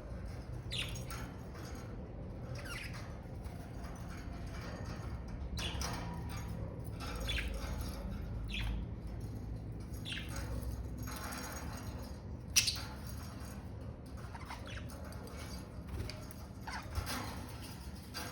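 Pet budgerigars chirping and chattering in scattered short calls, with one sharp, loud call about two-thirds of the way through, over a low steady hum.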